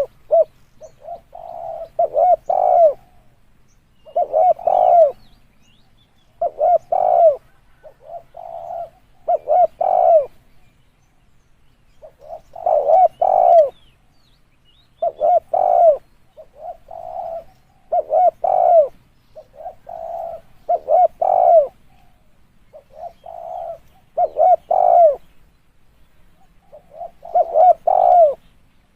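Spotted dove cooing: short phrases of several low coos repeated every two to three seconds, a lure call for decoy trapping.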